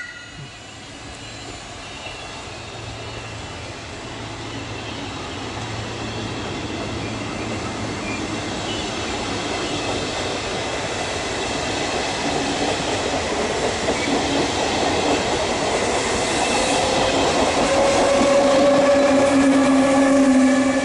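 Trenitalia regional train of passenger coaches rolling past, its wheel noise growing steadily louder as the electric locomotive at the rear approaches. A steady electric whine from the locomotive joins near the end.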